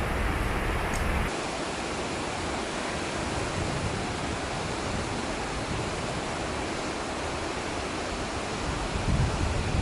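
Steady rushing of white water from the Cauldron Snout cascade on the River Tees. About a second in, a deeper low rumble drops away suddenly and the rush carries on evenly.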